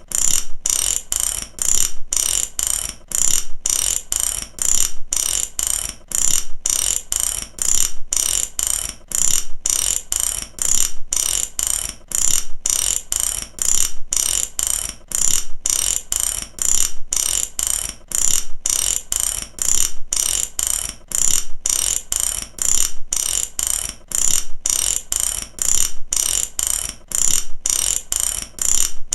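Mechanic's ratchet wrench worked back and forth, its pawl clicking over the teeth in repeated runs of sharp clicks at a steady, even rhythm.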